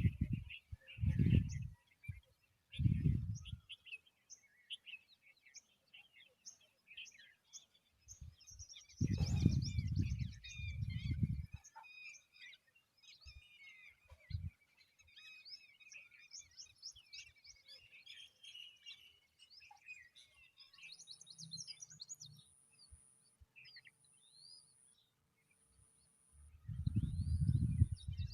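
Birds chirping in rapid runs of short high notes, busiest in the middle. Several low rumbling gusts come and go, loudest near the start, in the middle and near the end.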